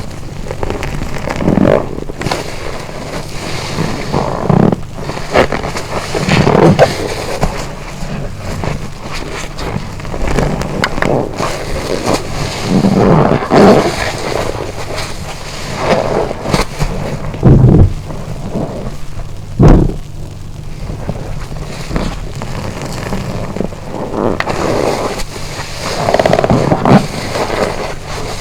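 A soaked car-wash sponge squeezed and rinsed over and over: wet squelches and gushes of water, one every second or two.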